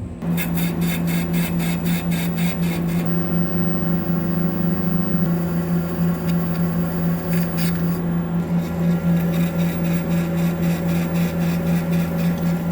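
Metal lathe cutting a hardened chrome steel pin, a steady hum from the machine under cut. For the first few seconds there is a rapid, regular ticking of about four a second.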